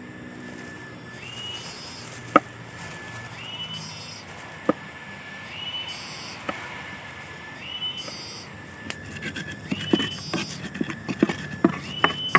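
A bird repeats the same call about every two seconds: a short steady whistle that jumps up in pitch at the end. Single sharp knocks of a knife chopping on a wooden board come through early on, then a quicker run of knocks near the end as chopping and a pestle pounding in a clay mortar go on together.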